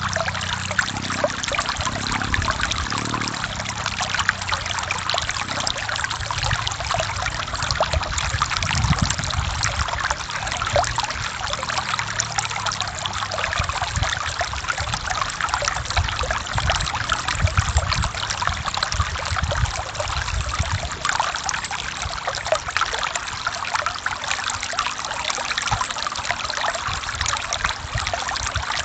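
Stream flowing over rocks, with water splashing and trickling and a low rumble from a small waterfall.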